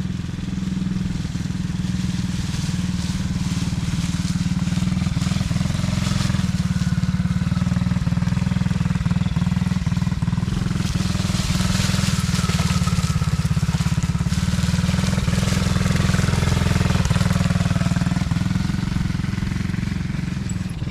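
Small 50cc kids' four-wheeler engine running steadily as it is ridden, a little louder through the middle.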